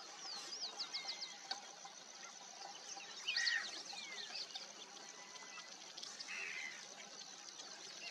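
Many birds calling: a stream of quick high chirps and short down-slurred notes, with a fast run of notes about half a second in and a louder call about three and a half seconds in. A short raspy call comes a little after six seconds, over a faint steady high whine.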